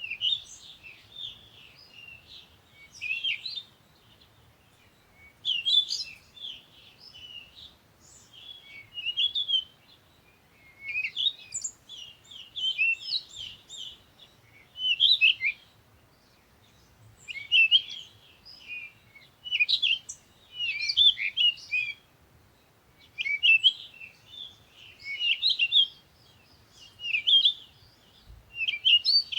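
Birds chirping in short bursts of quick high chirps and trills, a burst every two to three seconds.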